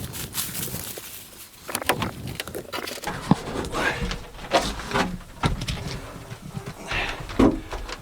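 Irregular knocks, clicks and rustling as a person handles a camera and moves about.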